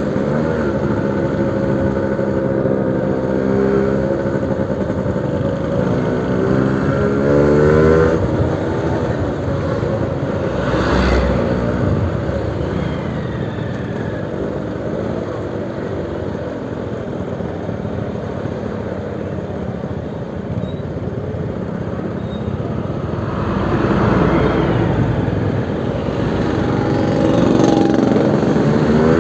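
Suzuki RC100 single-cylinder two-stroke motorcycle engine running through a new aftermarket exhaust, its pitch wavering and climbing with throttle. It turns rougher and noisier in the middle, swells again later, and near the end rises and falls sharply in quick revs.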